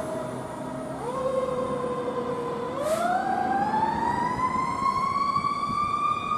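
Fire engine siren responding, its pitch stepping about a second in and then climbing slowly and steadily over the next few seconds. A brief hiss sounds about three seconds in.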